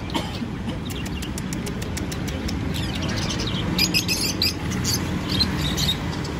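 Small cage birds chirping in short, high calls, in scattered clusters, over a steady low background rumble.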